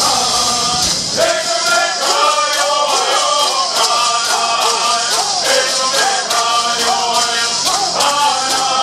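Southern California bird songs: a group of men singing in unison, keeping a steady beat of about three strokes a second on shaken gourd rattles.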